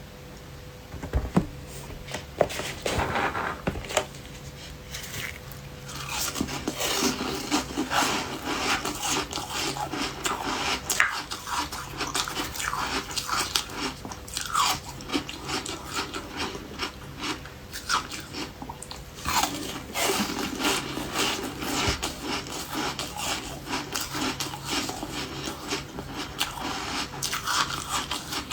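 Refrozen ice being bitten and chewed, a continuous run of irregular close-up crunches and crackles.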